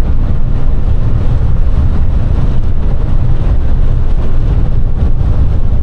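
Semi truck driving at road speed: a loud, steady low rumble of engine and road noise.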